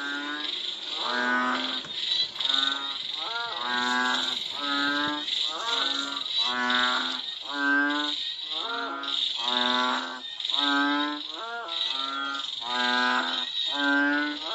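Frogs calling after rain: low calls repeated about once a second, some overlapping, over a continuous high-pitched chorus.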